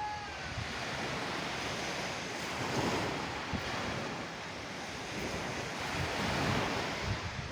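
Sea waves washing on the shore: a steady rushing that swells about three seconds in and again near the end.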